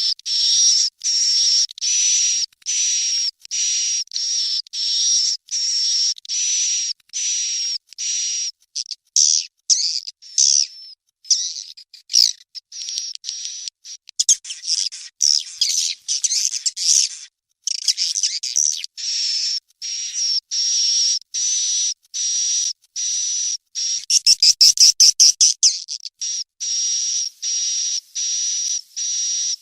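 Swiftlet chick calls, recorded for luring swiftlets into a bird house: a steady series of high chirps about two a second. The chirps turn irregular in the middle, and a fast run of louder clicking calls comes near the end.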